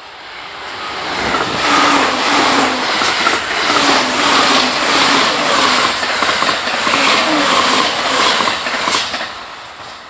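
JR East E353 series limited express electric multiple unit passing at speed: a rush of wheel-on-rail noise that swells about two seconds in, with a rapid, regular clatter of wheels over rail joints, then dies away near the end.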